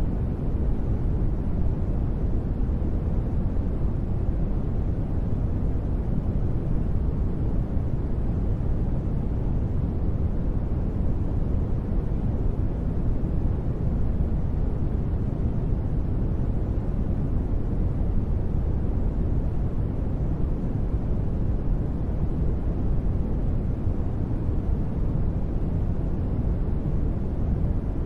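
Continuous steady white noise for sleep, an even rushing sound that is deep rather than hissy, with most of its weight in the low end and no changes or sudden sounds.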